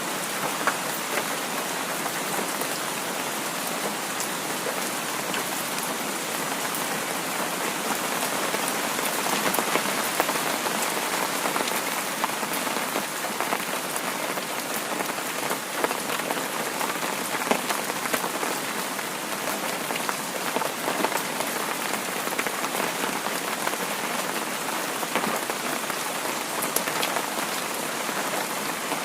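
Heavy rain falling steadily, a dense even hiss with many sharp drop ticks scattered through it.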